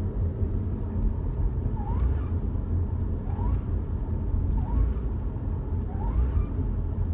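Mitsubishi Lancer GT running under light acceleration: a steady low engine and road rumble, with a faint short rising chirp repeating about every second and a half.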